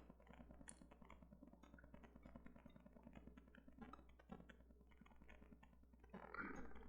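Near silence: faint, scattered clicks of a computer mouse over a low steady hum.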